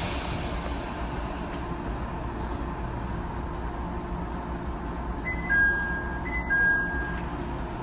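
HB-E210 hybrid railcar running along the line, a steady rumble, with a falling two-note chime sounding twice about five seconds in, the chime that precedes an onboard announcement.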